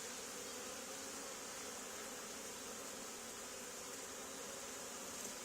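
Honey bees of a swarm buzzing steadily and faintly as they fly around and crawl into a hive box.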